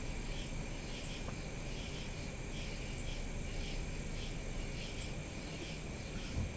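Crickets chirping steadily, a soft chirp repeating about twice a second over a thin steady high tone, with a low steady rumble underneath.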